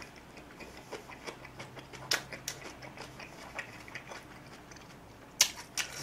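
Close-miked chewing of a mouthful of soft braised beef and tofu: irregular wet mouth clicks and smacks. Sharper clicks come about two seconds in, and a louder click comes near the end.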